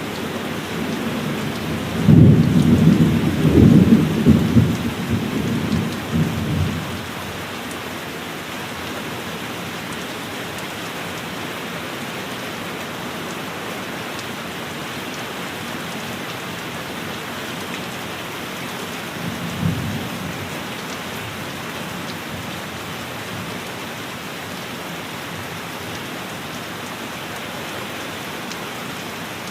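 Steady heavy rain, with a loud clap of thunder about two seconds in that rumbles on for about five seconds. A shorter, fainter roll of thunder comes about twenty seconds in.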